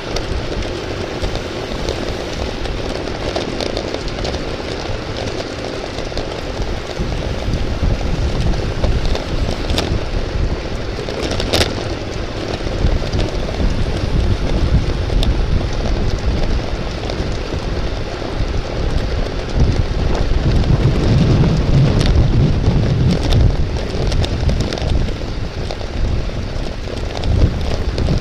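Wind rushing over the microphone of a camera riding in a bicycle road race, with road and tyre noise underneath. The wind rumble grows heavier about two-thirds of the way through, and there is a sharp click near the middle.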